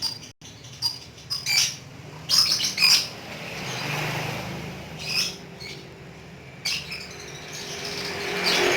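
Lovebirds giving sharp, high chirps and squawks in short bursts, about every second or two, over a steady low hum, with a brief cut in the sound a fraction of a second in.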